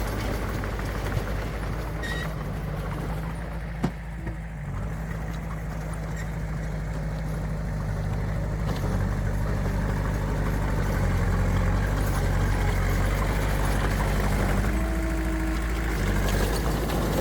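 Diesel engine of heavy earthmoving machinery running steadily, growing a little louder after about half way, with a single sharp knock about four seconds in.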